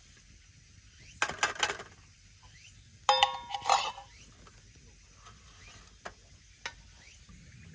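Metal camp cookware handled and knocked together: a short clatter about a second in, then a ringing metallic clink a couple of seconds later, followed by two light clicks.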